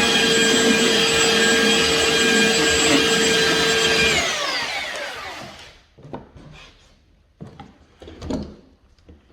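Electric sander running steadily with a whine, then switched off about four seconds in and winding down to a stop. After it, a few light knocks and rubbing sounds on the wood.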